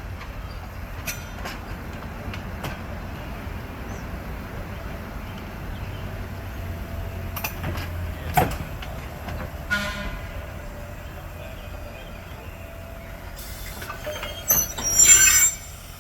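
Chicago Aurora & Elgin interurban car 458 running on the rails: a steady low rumble with scattered clicks and a sharp knock about halfway through. Near the end its horn sounds loudly for about a second, the loudest thing here.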